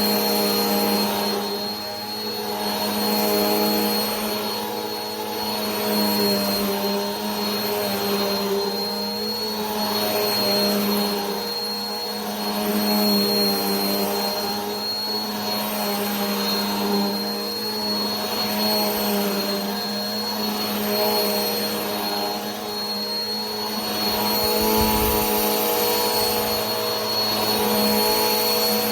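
Vacuum cleaner running continuously, a steady motor hum with a high whine and a rush of air that swells and eases gently about every two seconds.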